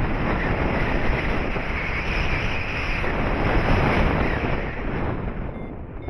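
Wind noise from the airflow of a paraglider in flight buffeting the microphone: a loud, steady rush that swells in the middle and eases a little near the end.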